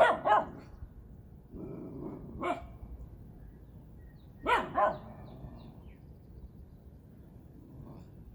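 A dog barking in pairs. Two loud barks come at the start, then a lower drawn-out sound ending in a single bark, then two more barks about halfway through. This is startled alarm barking at a noise such as a window being opened.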